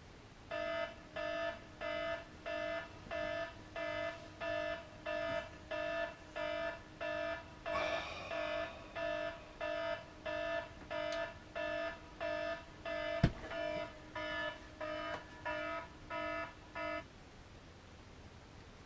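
Electronic alarm beeping: about 25 short, identical beeps, about one and a half a second, that stop suddenly near the end. A single sharp click comes partway through.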